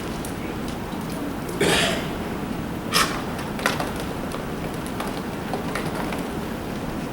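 Handling noises of props being set up over a steady room hum: a brief rush of noise about a second and a half in, then a sharp click and a few lighter clicks and knocks.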